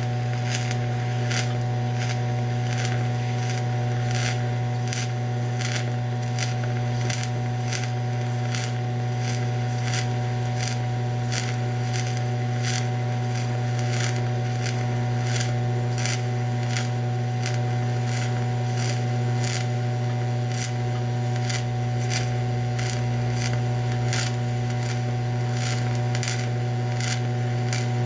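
TIG welding arc on aluminum, run on DC electrode positive: a steady low hum with irregular crackling ticks throughout.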